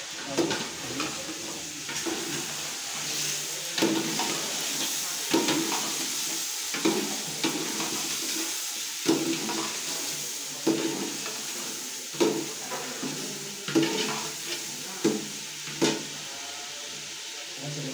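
Chicken sizzling as it fries in a steel pot, stirred with a metal spoon that scrapes and knocks against the pot about every second and a half over a steady frying hiss.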